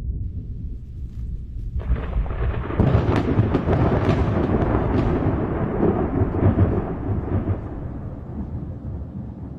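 A thunderclap: a low rumble breaks into a sudden loud peal about two seconds in, with sharp crackling cracks over the next few seconds, then rolls on as a deep rumble that slowly fades.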